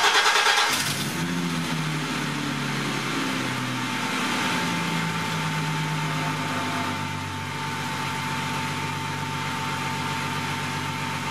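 BMW E30 325i's M20B25 2.5-litre straight-six idling just after firing up, running with only the front half of its exhaust fitted; it is louder for the first second, then the idle rises slightly and settles lower about two-thirds of the way through. A faint steady whine joins about four seconds in.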